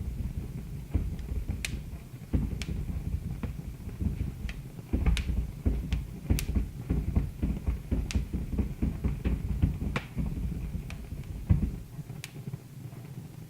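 Wood fire crackling in a fireplace: irregular sharp pops and snaps over a low rumble of burning, with one louder pop near the end.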